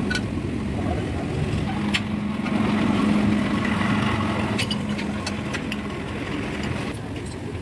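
A vehicle engine running steadily, growing louder about two seconds in and easing off again, with a few sharp clicks.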